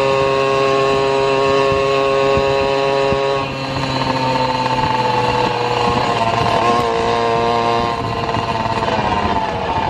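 Engine of the vlogger's own vehicle under way, held at steady revs, then a gear change about three and a half seconds in, after which the revs climb slightly and then fall away near the end as it slows.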